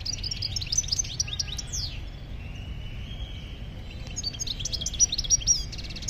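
Small birds chirping and twittering in two bursts of quick high chirps, the first over the first two seconds and the second starting about four seconds in, with a steady low rumble underneath.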